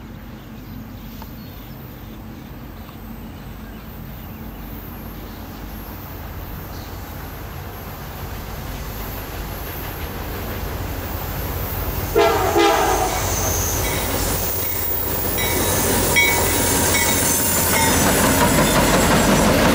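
A CSX freight train led by an EMD road slug approaches, its diesel locomotives rumbling louder and louder. A short horn blast sounds about twelve seconds in. Near the end the locomotives pass close by, with wheels clattering on the track.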